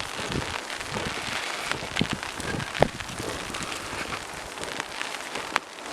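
Rain falling, an even hiss dotted with many sharp drop ticks, a few louder drops hitting close by about two seconds in and again near three seconds.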